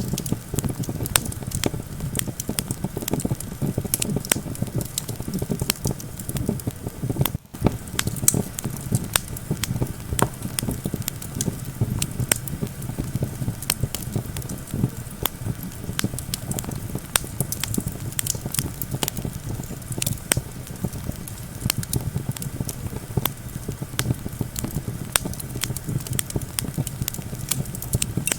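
Wood campfire crackling, with frequent sharp, irregular pops over a steady low rumble. The sound briefly drops out about seven seconds in.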